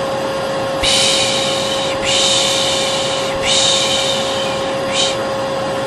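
A vacuum cleaner running steadily with a constant motor hum, overlaid with long 'shhh' shushes (the Turkish 'piş piş' hush used to lull a baby). The shushes come about four times, each lasting a second or so.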